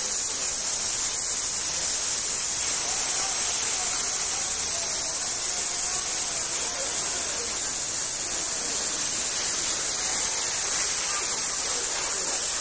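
Steady hiss of rushing and spraying water, with faint voices underneath.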